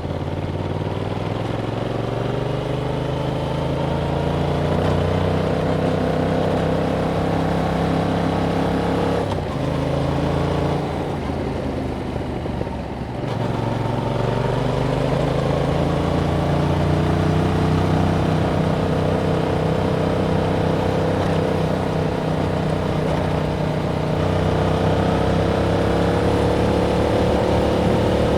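A 2021 Yamaha MT-07's 689 cc parallel-twin engine running through its stock exhaust under way, its pitch climbing slowly as it pulls. About a third of the way in it eases off briefly, then pulls up again with a slow rise in pitch.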